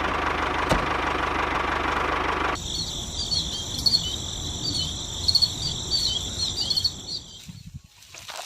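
A small electric motor runs steadily with a hum, then cuts off abruptly about two and a half seconds in. High, rapid chirping like crickets follows and fades out near the end.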